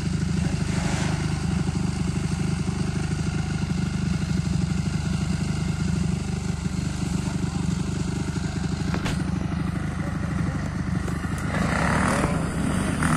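Enduro dirt bike engine running steadily close by, getting a little louder near the end.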